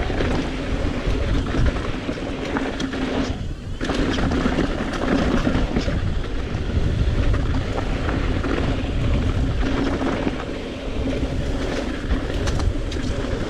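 Strong wind buffeting the microphone of a mountain bike rolling fast down a dirt trail, over tyre rumble and scattered knocks and rattles from the bike. A faint steady hum runs underneath.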